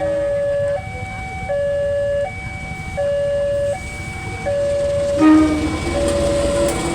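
Railway level-crossing warning alarm sounding, alternating between two tones about every three-quarters of a second. About five seconds in, a train horn blasts loudly and the rumble of the approaching train rises under the alarm.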